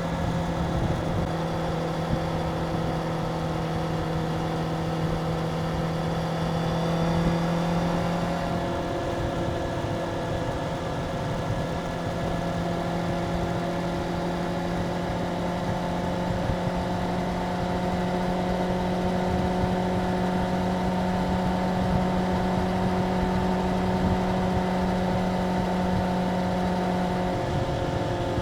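Stock Suzuki GSX-R750's inline-four engine running steadily above idle, its pitch shifting slightly about eight seconds in, then creeping slowly upward.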